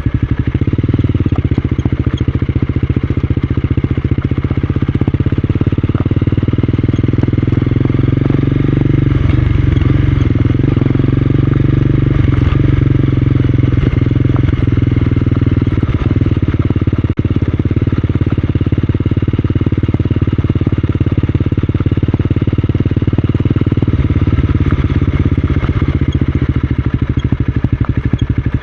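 Honda CB250R's single-cylinder engine running steadily.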